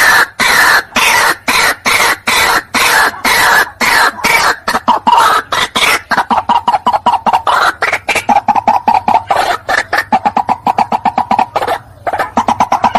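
White-breasted waterhen calls played as a lure recording: loud, harsh notes repeated rapidly. After about six seconds they become a quicker, more even run at one pitch. Near the end there is a brief pause before the calling starts again.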